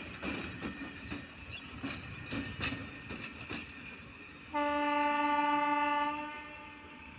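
Indian Railways passenger coaches clattering over rail joints and points, their wheels giving irregular sharp clicks. About four and a half seconds in, a train horn sounds one loud, steady blast of about two seconds, then fades.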